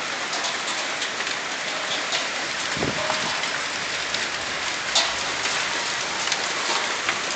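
Large hailstones, quail-egg sized, pelting down in a dense steady patter, with sharp cracks of single stones striking hard surfaces; the loudest crack comes about five seconds in.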